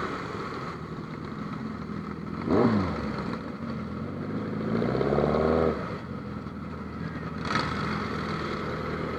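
Superbike engine revving in the open air: a quick throttle blip about two and a half seconds in, then a longer rev that climbs for about a second and cuts off near the middle, over a steady engine background.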